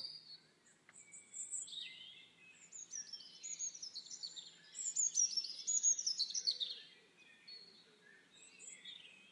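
Songbirds singing outdoors: overlapping chirps and short falling trills, loudest a little past the middle, over faint background noise.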